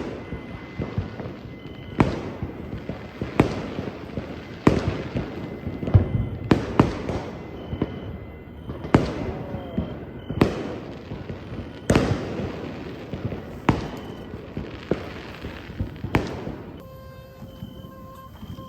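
Fireworks going off: a dozen or so sharp bangs, about one every second or so, each trailing off in echoing crackle. They stop near the end.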